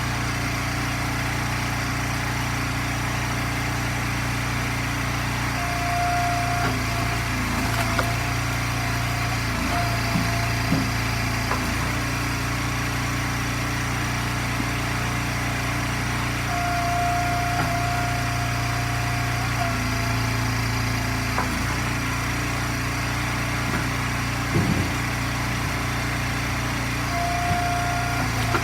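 Gas engine of a firewood log splitter running steadily. A higher whine comes in briefly three times, about ten seconds apart, with a few short knocks and cracks in between.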